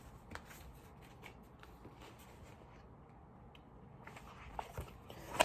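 Faint rustling and a few light taps of paper, as the pages of a picture book are handled and turned.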